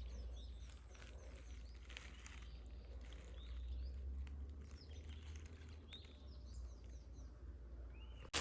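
Birds chirping: many short, quick calls, some rising and some falling, repeating throughout, over a low steady rumble.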